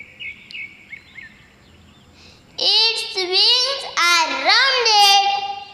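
Sparrow chirping in a quick run of short, high notes. About halfway in, a child's high-pitched voice comes in much louder and drowns it out.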